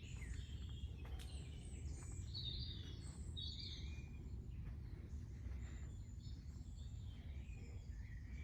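Several small birds chirping and trilling in short, scattered calls, over a steady low rumble.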